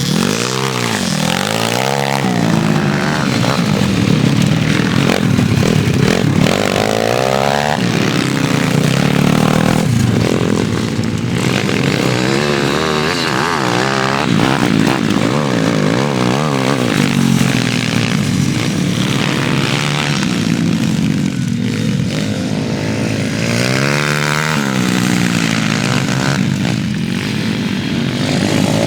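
Pit bike engines revving on the track, their pitch repeatedly rising and falling as they accelerate and ease off, with overlapping engine notes from more than one bike.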